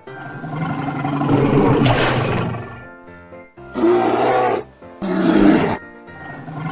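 Recorded animal roar sound effect, three roars: a long one over the first few seconds, then two short ones about four and five seconds in, over children's background music.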